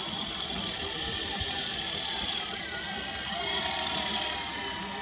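Whine of a WLtoys V915-A scale RC helicopter's brushed electric motors driving its rotors, with several high tones that shift in pitch. The sound grows a little louder about three and a half seconds in.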